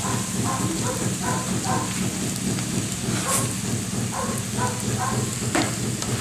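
Minced fish and diced vegetables sizzling in a hot pan while a spatula stirs them, scraping in short repeated strokes, over a steady low hum, with one sharp click near the end.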